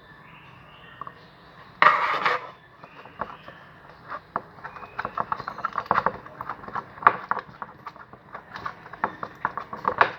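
Homemade slime mixture being worked by hand as lotion goes in: a short, loud squirt-like rustle about two seconds in, then a long run of quick, irregular clicks and snaps.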